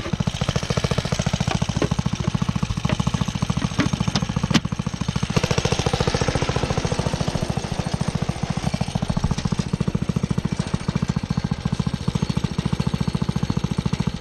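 Small engine running steadily with a rapid, even chugging of many firing pulses a second.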